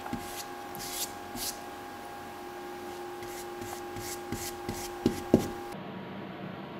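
Brush strokes rubbing varnish onto a wooden shelf, soft and irregular, with a couple of light knocks about five seconds in.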